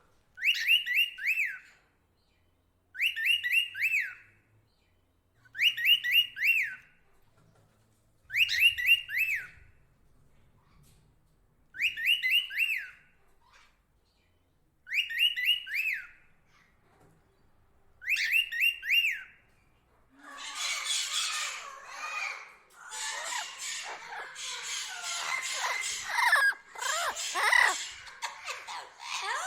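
A bird repeats the same short call seven times, about once every three seconds, each call a quick run of three or four falling notes. About two-thirds of the way in, a dense, jumbled chatter of many bird calls takes over.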